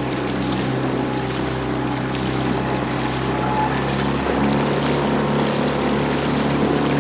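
Outboard motor of a coaching launch running steadily, with wind and water noise over it; the engine note rises a little about four seconds in.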